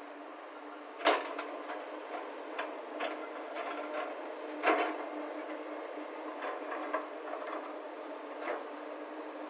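Excavators' diesel engines running steadily while loading soil into a tipper lorry, with scattered knocks and clunks; the two loudest come about a second in and near the middle.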